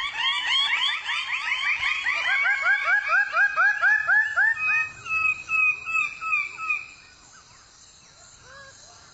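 Several male Raggiana birds of paradise calling together: overlapping series of quick, rising notes, about five a second, which thin out and die away after about seven seconds. It is the clamour of displaying males that lets females find them.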